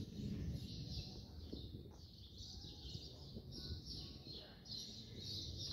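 Birds chirping in quick, repeated short notes, over a steady low rumble.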